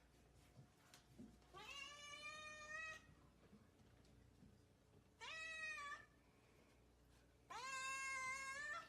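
A cat meowing three times in long drawn-out calls, each rising in pitch at the start and then held steady.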